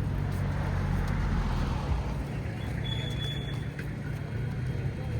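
A motor vehicle's engine running steadily with a low, even hum. A brief thin high tone sounds about three seconds in.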